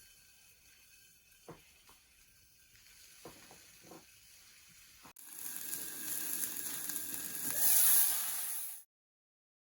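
Wood fire burning in a small secondary-combustion fire pit: a few faint crackles at first, then, about five seconds in, a loud steady hiss of flame that swells and cuts off abruptly near the end.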